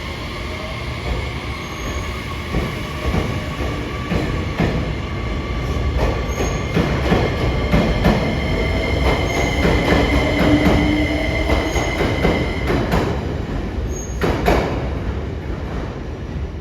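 Train running along the track with a steady wheel squeal over the rumble and scattered sharp clicks from the wheels over rail joints. The sound grows louder toward the middle.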